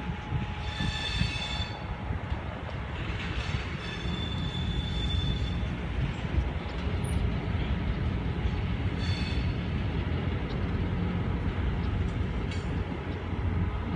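Freight train rolling past behind a CSX EMD GP38-3 diesel locomotive: a steady low rumble of engine and wheels on rail. Short high-pitched wheel squeals come about a second in, around four seconds in and again about nine seconds in.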